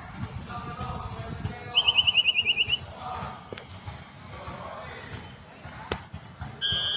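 A tledekan gunung songbird singing in short bursts: a quick run of very high notes about a second in, then a fast, even trill of lower notes, and more high, falling notes near the end.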